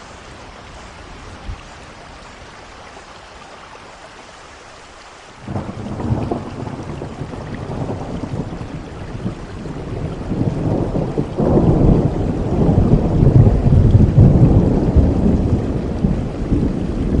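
Steady rain falling, then about five seconds in a long roll of thunder breaks in suddenly, rumbling in surges that grow louder and peak near the end.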